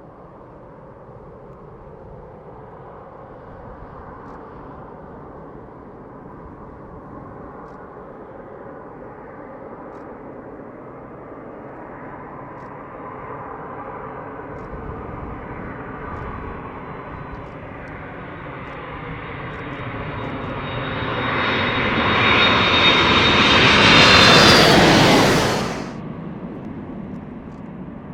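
Boeing 767-300ER airliner on landing approach passing close: the rumble of its turbofan engines, with a high steady whine, grows louder over about twenty seconds, peaks, then drops off sharply as it goes by.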